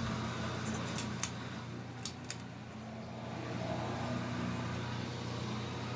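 Walmart Mainstays hugger ceiling fan running on medium speed: a steady motor hum with air rushing, and a few short clicks about one and two seconds in.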